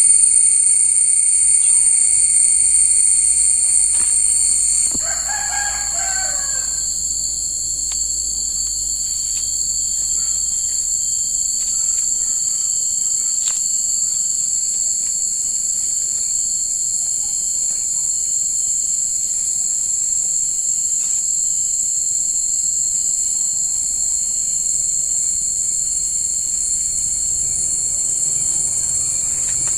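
Steady, high-pitched insect chorus of several held trilling tones; two of them stop about five seconds in. Just after, a single pitched call lasts about two seconds, the shape of a rooster's crow.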